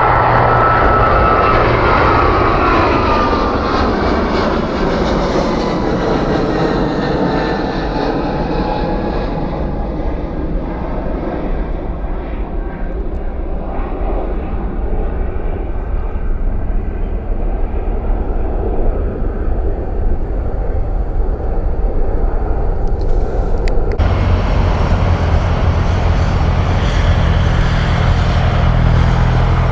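An airliner's jet engines passing close by, their whine sliding steadily down in pitch and fading as the aircraft moves away. About three quarters of the way through, the sound switches abruptly to a louder, steady low rumble of jet engines.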